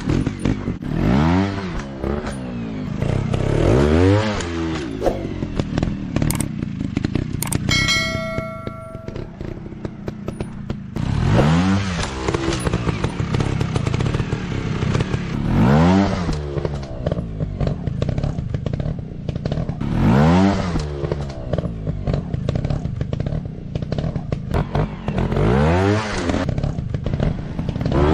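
Dirt-bike engine revving in repeated bursts, each rising and falling in pitch, about six times, over a constant clattering rumble. A short multi-pitched electronic tone sounds about eight seconds in.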